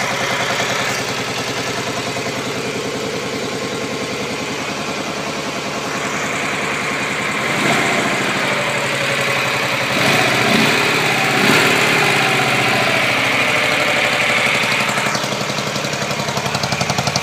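Dnepr K-650 motorcycle's flat-twin engine running at idle, even and steady, with its note rising and falling a few times in the middle. It runs cleanly: 'четко работает везде'.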